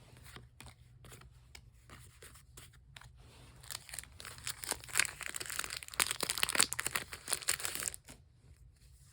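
Foil wrapper of a Pokémon booster pack being torn open and crinkled: a dense crackling rustle that starts about three and a half seconds in and stops sharply near eight seconds, after a few light handling clicks.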